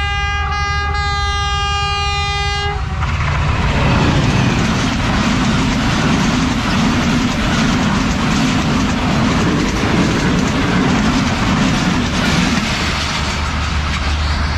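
Diesel locomotive horn sounding one long steady chord, cutting off about three seconds in, followed by the loud, steady running noise of a passenger train passing close by on the track.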